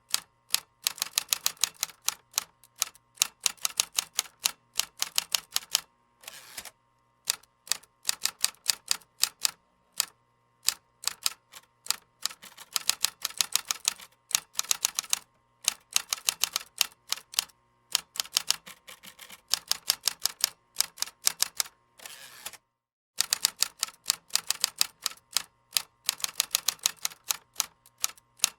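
Computer keyboard typing: fast runs of sharp keystroke clicks, broken by short pauses every few seconds.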